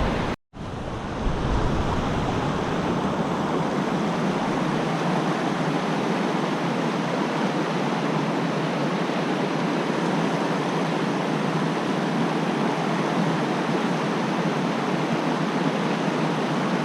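Steady rushing of a fast-flowing creek, with a brief break to silence about half a second in.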